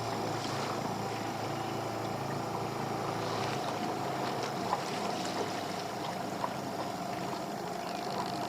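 Small fishing boat at sea: a steady low engine hum with water and wind noise, and a few light knocks around the middle.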